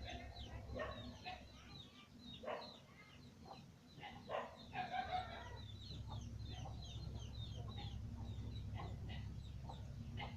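Chickens clucking, many short choppy calls one after another, over a steady low hum that grows louder about halfway through.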